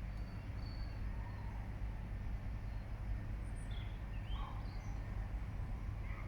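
Steady low outdoor rumble with a few faint, brief high bird chirps in the middle.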